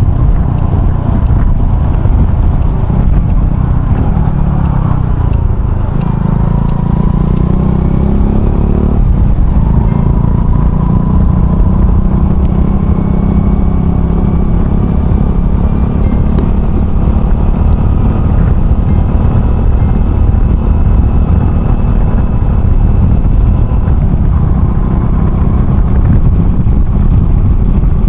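Honda Cross Cub 110's single-cylinder engine running under way through an aftermarket RPM Raptor muffler. The engine note climbs over several seconds about a quarter of the way in, then holds fairly steady.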